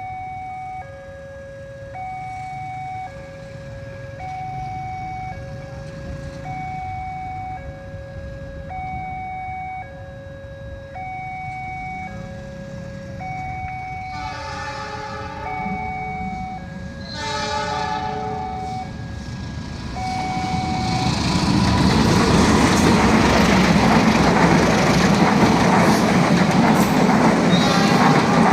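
Railroad crossing warning alarm ringing in two alternating tones, swapping about once a second. A train horn sounds twice, about 14 and 17 seconds in. From about 20 seconds in, the train arrives and runs past loudly, its wheels clattering over the rails.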